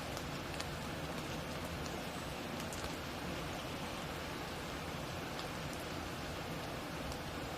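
Steady hiss of rain in a forest, with scattered sharp ticks of drops landing.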